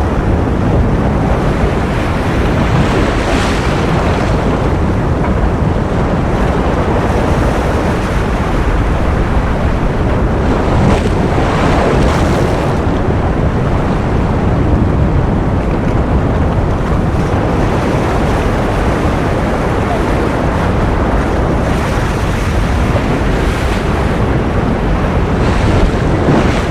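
Ocean surf: a loud, unbroken wash of waves, swelling and hissing brighter a few times as waves break.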